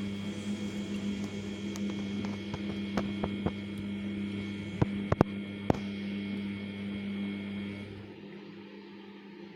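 Samsung P1271 washing machine giving a steady electrical hum, with a few sharp clicks in the middle. About eight seconds in, the lower part of the hum and the higher tones stop, leaving a quieter drone.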